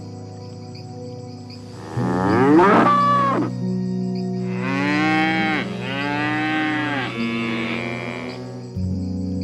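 Cow mooing twice: a first moo about two seconds in, then a longer moo in several swells from about five to eight seconds, over soft, steady background music.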